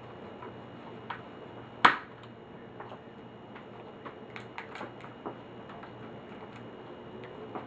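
Scattered small clicks and taps of laptop parts and screws being handled, at uneven spacing, with one sharp loud click about two seconds in.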